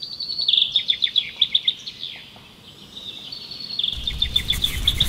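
A small songbird singing repeated fast trills of high chirps, with a pause in the middle. A low steady rumble comes in about four seconds in.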